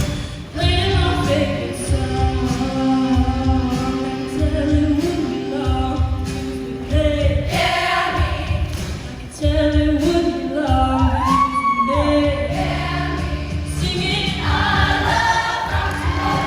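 High school show choir singing a rock number in unison and harmony over a band accompaniment with a steady drum beat.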